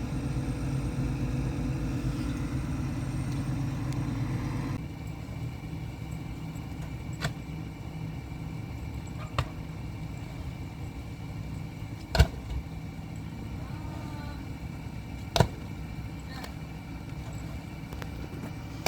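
An engine running steadily, which stops abruptly about five seconds in. A quieter steady hum follows, broken by a handful of sharp knocks, the loudest about twelve and fifteen seconds in.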